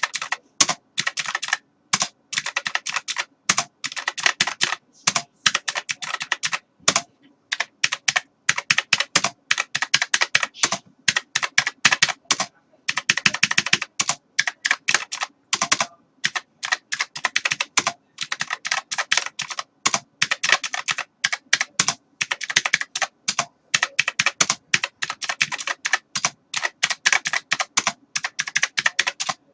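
Computer keyboard being typed on: fast runs of key clicks, several a second, broken by short pauses.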